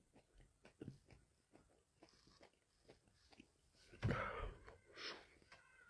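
A person chewing Carolina Reaper peppers: a quiet run of small wet mouth clicks, with a louder breathy burst a little after four seconds in and a smaller one about a second later.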